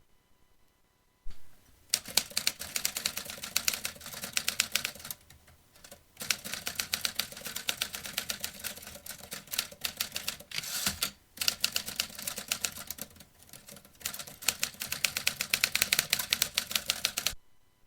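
Vintage manual typewriter being typed on: a single knock, then rapid keystrokes in several bursts separated by short pauses, stopping just before the end.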